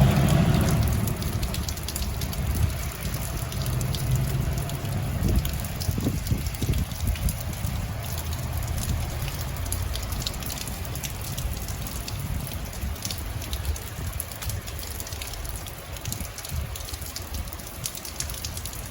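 Steady rain falling, with scattered sharp drop ticks over a constant low rumble. A passing vehicle fades away in the first second.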